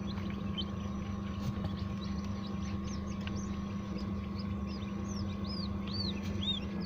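Newly hatched quail chicks peeping in short, high, arched chirps, more often toward the end, over the steady hum of an egg incubator.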